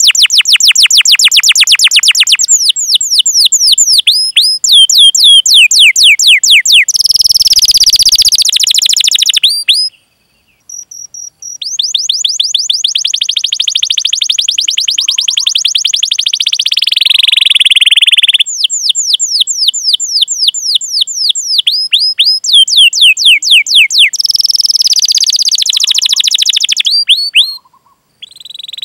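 Domestic canary singing long, fast trains of repeated sweeping 'cuit cuit' chirps and rolls, about ten notes a second, with brief pauses about ten seconds in and near the end.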